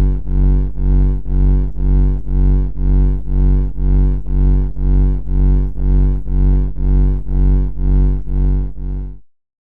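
A low, buzzy tone pulsing on and off about twice a second at a steady pitch, cutting off abruptly near the end.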